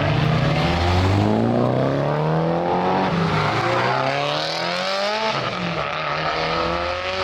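Car engine and exhaust revving up under acceleration, the pitch climbing for several seconds and then dropping suddenly about five seconds in.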